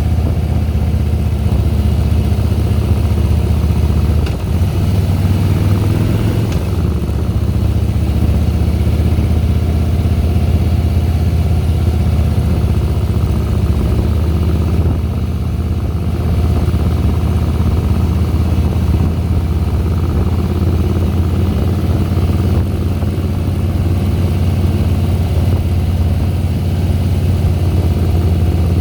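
Harley-Davidson Softail Deluxe's air-cooled V-twin engine running steadily under way. Its low pitch shifts slightly about four to seven seconds in, and it eases off briefly around fifteen seconds.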